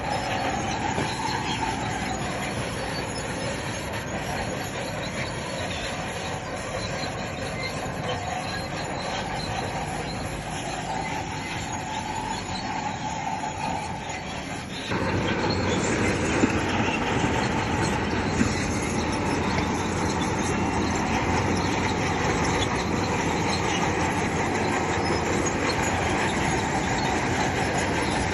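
Crawler bulldozer working, its diesel engine running under a steady din of steel tracks clanking, with a wavering squeal in the first half. The sound jumps abruptly louder and fuller about halfway through.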